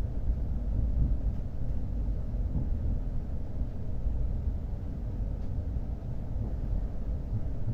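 Steady low rumble inside a Shinkansen car as the train runs, with no tones or clicks standing out.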